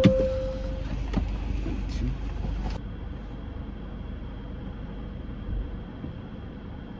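Steady low rumble of a car running, heard from inside the cabin, with a sharp thump right at the start.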